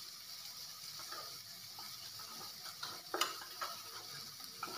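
Onion-tomato masala frying in oil in a nonstick kadai: a steady soft sizzle, with a few sharp light clicks about three seconds in and again near the end.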